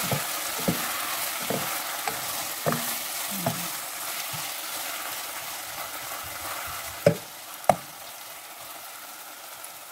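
Chopped kimchi with onion and garlic sizzling in a nonstick pot as a spatula stirs and scrapes through it; the sizzle slowly dies down. Two sharp clicks come about seven seconds in.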